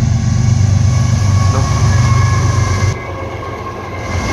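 Diesel locomotive of a freight train passing close by, its engine giving a loud steady low rumble with no horn. The sound drops quieter for about a second near three seconds in, then picks up again.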